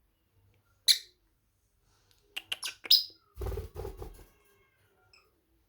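A parrot chirps: one sharp high chirp about a second in, then a quick run of chirps near the three-second mark. A short low rustling noise follows.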